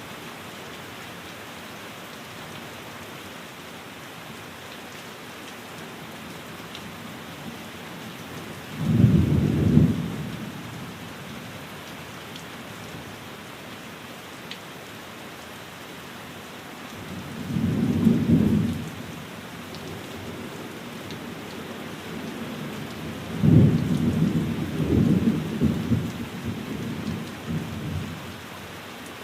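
Steady rain falling on a window, with three low rumbles of thunder: a short one about a third of the way in, another just past halfway, and a longer one with several swells near the end.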